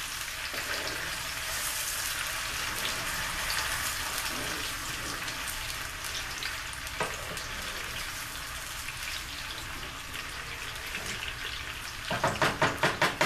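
Diced onions and red and green bell peppers sizzling steadily in plenty of hot vegetable oil in a skillet over high heat, stirred with a wooden spoon. Near the end, a quick run of louder pulses.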